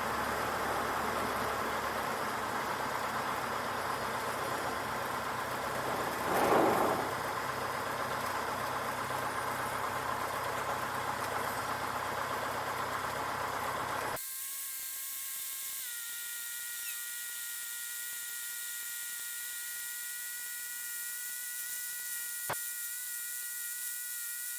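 Cessna 152 cabin noise, its four-cylinder Lycoming engine and airflow, heard through the headset audio feed as a steady rushing drone that swells briefly about six seconds in. About halfway through, the drone cuts off suddenly. Only a faint steady electronic whine of a few high tones remains, with a single click near the end.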